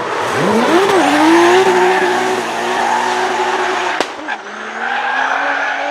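Drift car engine revving hard: the pitch climbs quickly and holds high while the tyres squeal and skid. There is a sharp crack about four seconds in, then a short dip in revs before the engine picks up again.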